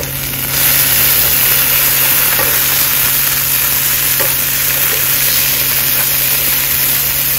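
Diced potato, onion and green chilli sizzling in hot oil in a nonstick frying pan while being stirred with a wooden spatula. The sizzle swells about half a second in and then holds steady.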